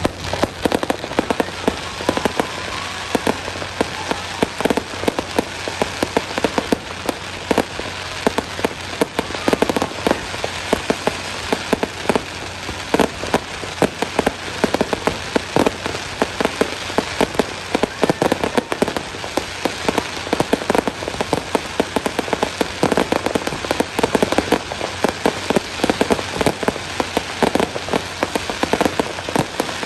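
Fireworks crackling: a dense, continuous stream of rapid, irregular small pops and cracks.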